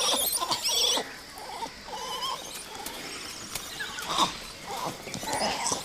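Langur monkeys calling. High, wavering squeals come in the first second, followed by scattered shorter calls.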